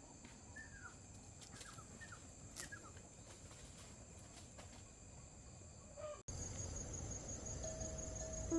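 Rural outdoor ambience: insects trill steadily and high, with a few short falling bird chirps in the first half. About six seconds in the sound cuts abruptly to a louder take with the same insect trill, and music notes begin near the end.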